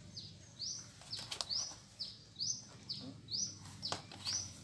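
A bird chirping over and over, each call a short high falling note followed by a rising one, about once a second. A few sharp clicks fall about a second in and again near the end.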